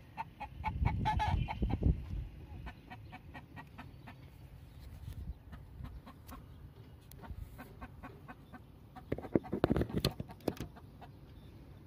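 Chickens clucking, with louder rustling and knocks about a second in and again near the end.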